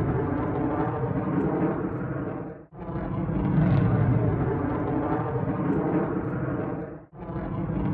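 Aircraft engine running steadily, a loud drone made of many even tones. It breaks off suddenly twice, once around the middle and once near the end.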